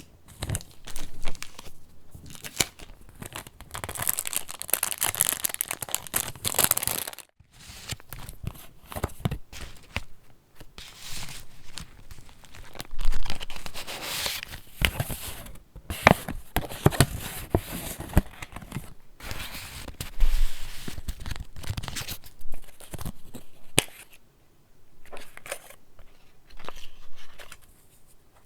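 Pages of a handmade junk journal being handled and turned: paper rustling and crinkling, with sharp crackles and taps as pages, tags and embellishments are flipped and flattened.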